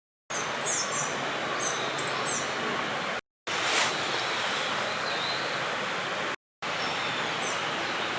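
Small birds chirping in short repeated calls over a steady rushing background noise, in three stretches cut apart by two brief drop-outs to silence.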